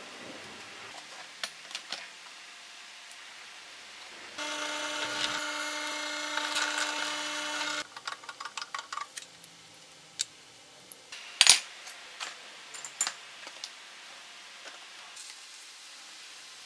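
Circular saw on a track-saw rail running for about three and a half seconds, a steady whine with a hum under it, starting and stopping abruptly. Then comes a quick run of clicks and a few sharp knocks and clatters.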